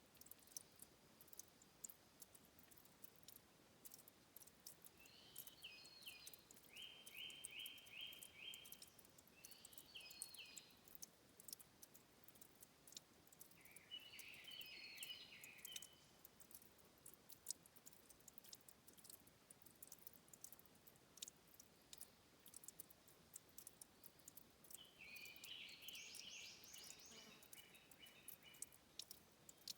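Faint water dripping and trickling at a spring source, with many small scattered ticks. A small songbird sings short phrases of quickly repeated notes several times, the longest near the end.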